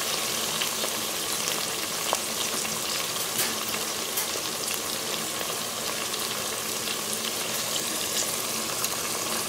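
Green peas, sliced onions and green chilli sizzling steadily in hot oil with a splash of water in a pan, with a few faint pops.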